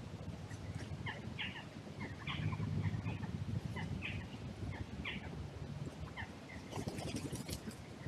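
Small birds calling in short, scattered chirps over a low steady rumble, with a few dry crackles near the end.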